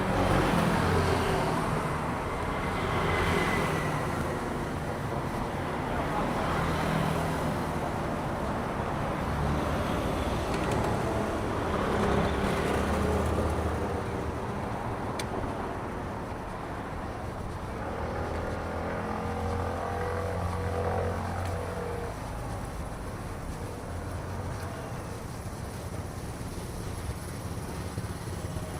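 Road traffic on a city street: cars and motorbikes passing, with the noise swelling as each goes by and one engine running close for a few seconds past the middle.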